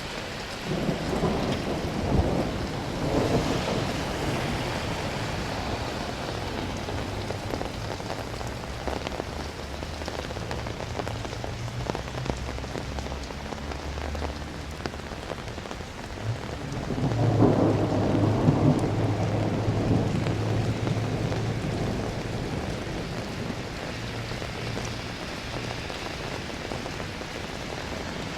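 Steady rain falling, with two peals of thunder: one about a second in and another about two-thirds of the way through. Each peal cracks and then rolls into a long low rumble that dies away over several seconds.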